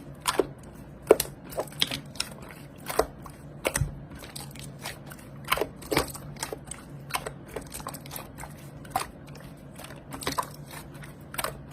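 Slime being pressed and poked by hand, giving irregular crackling clicks and pops.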